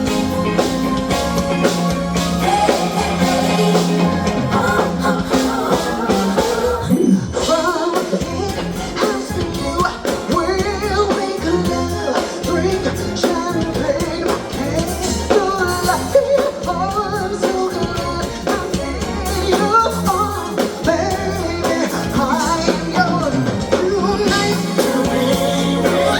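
Late-1980s R&B song with a female lead vocal over a steady beat and bass line.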